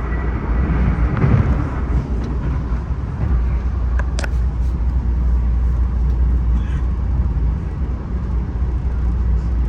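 Steady low rumble of a passenger train in motion, heard from inside a Bombardier LRC rail coach, with a brief sharp click about four seconds in.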